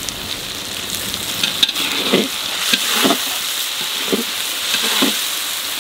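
Green and dried chili paste sizzling steadily in hot oil with onions, garlic and ginger in a metal wok, the spice-frying stage of a curry. From about a second and a half in, a spatula stirs and scrapes through it in a series of strokes.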